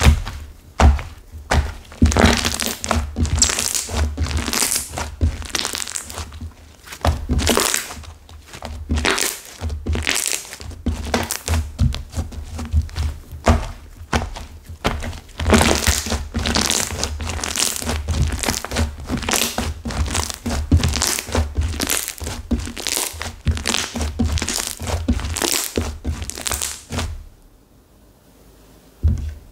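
Flora slime (clay-mixed slime) crackling and clicking as it is squeezed and pressed by hand, with low thuds; the clay in it has hardened into crunchy bits. The sound stops abruptly near the end.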